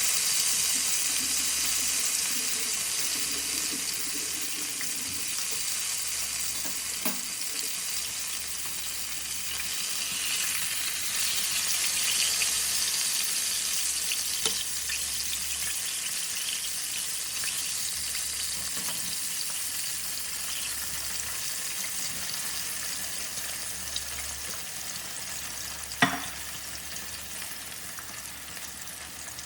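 Battered vegan fish patties frying in hot oil: a steady sizzling hiss that slowly fades, with a few light clicks and one sharp click near the end.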